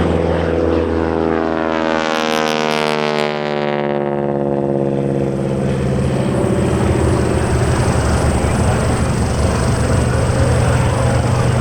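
T-6 Texan's Pratt & Whitney R-1340 radial engine and propeller making a close pass, the pitch dropping sharply as it goes by about two to four seconds in, then settling into a steady drone.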